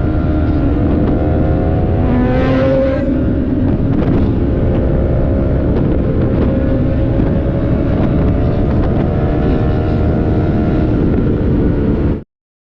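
Sport motorcycle engine running at a steady cruising speed, with wind noise over the microphone. About two to three seconds in, a second engine note briefly rises in pitch, and the sound cuts off suddenly near the end.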